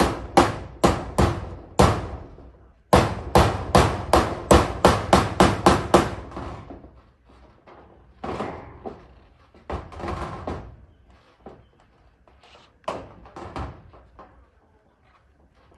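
Hammer driving nails into corrugated zinc roofing sheets. A handful of blows comes first, then a fast run of about a dozen strikes at roughly four a second, then a few softer, scattered knocks.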